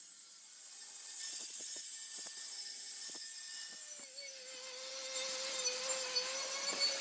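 A power tool working on metal: a rasping high hiss with scattered clicks, joined about four seconds in by a steady motor whine.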